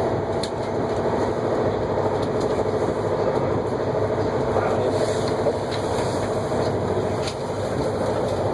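Heathrow Express electric train running fast, heard from inside the passenger car: a steady rumble of wheels on rail and motor hum, with a few faint clicks.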